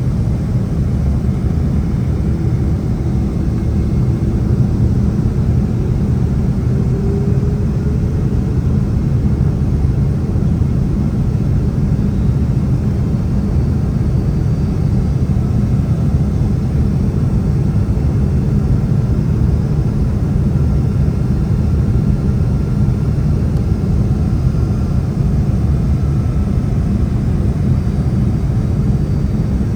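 Steady cabin noise of a Boeing 767-300 in flight: a low, even rumble of jet engines and airflow heard from inside the cabin, with a faint tone rising briefly a few seconds in.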